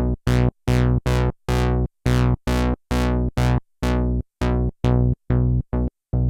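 Sequential analog polysynth playing a repeated low staccato note, about three a second. Each note starts bright and quickly turns dark as its filter closes. Near the end the notes become shorter and duller.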